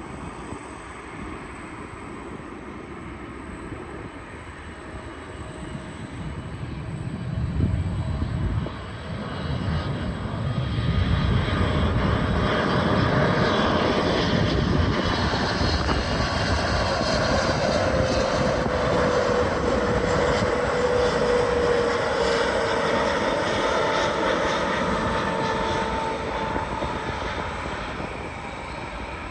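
Jet airliner passing on its landing approach: the engine noise swells to a steady loud rush, with a whine that slowly falls in pitch as it goes by, then fades near the end.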